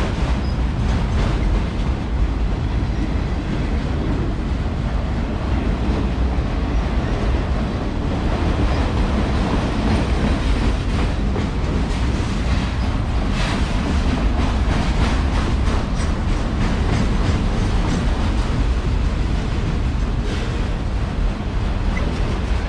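Freight train cars rolling past at close range, a steady rumble with the wheels clicking over the rail joints.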